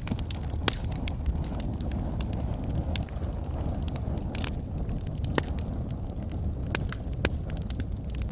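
Logs burning in a fireplace: a steady low rumble of flames with sharp crackles and pops at irregular intervals.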